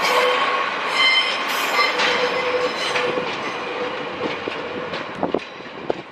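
A train moving along the platform track, its wheels squealing with thin high ringing tones in the first two seconds. It then grows quieter, with a run of sharp wheel clicks over rail joints near the end.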